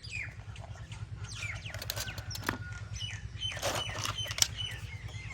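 Small birds chirping repeatedly, in short falling calls and a few held high notes, over a steady low hum with a few clicks.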